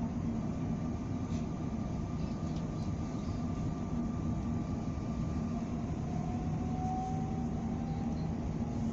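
A moving train heard from inside the carriage: a steady low rumble of the running train. A faint thin whine sits over it for the first half, and a faint, slowly rising whine comes in after about six seconds.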